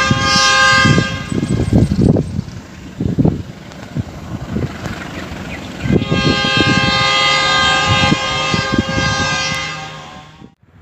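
A train's multi-tone horn sounds in two blasts: one ending about a second in, then a longer one of about four seconds starting near the middle. Beneath it runs the clatter and rumble of the train's wheels passing over the track.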